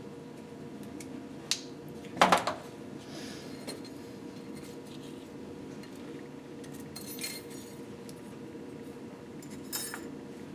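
Small metal parts and tools clinking: a sharp click, then a louder short metallic clatter about two seconds in, and a few lighter clinks later, over a steady low hum.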